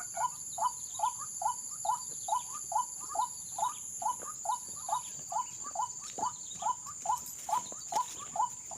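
White-breasted waterhen call: a short, bent note repeated at an even pace of a little over two a second, the lure call used to draw in ruak-ruak. Under it runs a steady, high-pitched insect drone.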